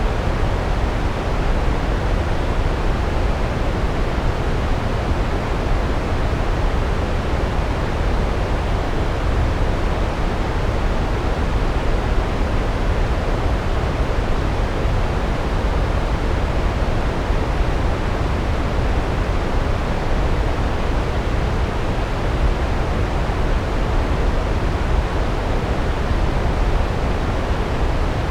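Large waterfall pouring onto rocks: a steady, deep, unbroken rush of water.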